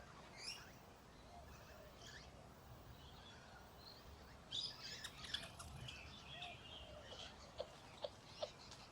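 Faint, scattered high chirps and squeaks from small animals, thickest about halfway through, with a few short sharp peeps near the end.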